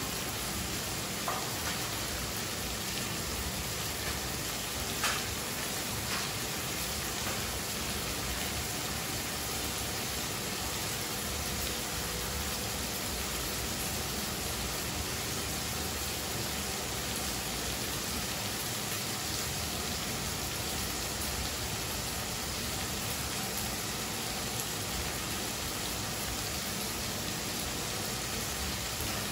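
Onions and chopped tomatoes frying in a pan: a steady sizzle, with a few light clicks in the first six seconds.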